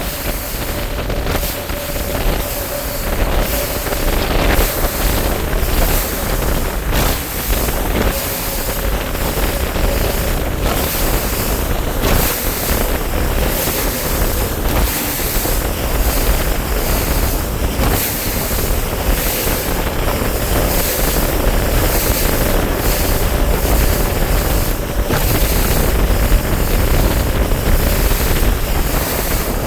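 Wind buffeting the microphone and water splashing against a bass boat's hull on choppy water, with a faint steady hum underneath and scattered slaps.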